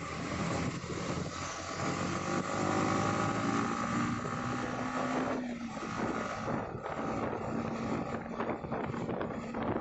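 Motorcycle engine running on the move, its pitch shifting as it rides, mixed with wind rush and road traffic noise.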